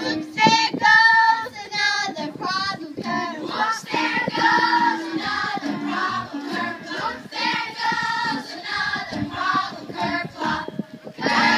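Singing voices over musical accompaniment, several voices together, with lines that rise and fall.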